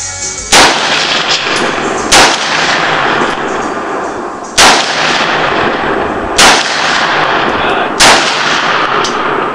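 AR-15 rifle firing .223 rounds, five single shots one to two and a half seconds apart.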